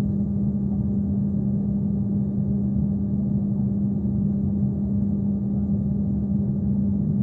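Steady drone inside an airliner cabin at the gate: the hum of the ventilation and air conditioning, with a strong low tone over a low rumble.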